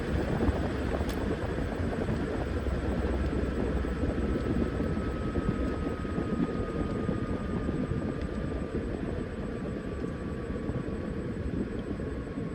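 Washing machine running with a steady rumble from the spinning drum, and a thin motor whine that slowly falls in pitch as the spin eases.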